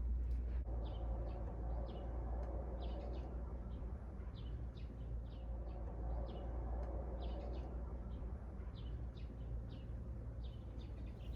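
Small wild birds at a feeder calling in short, high chirps, repeated many times throughout, over a steady low background rumble.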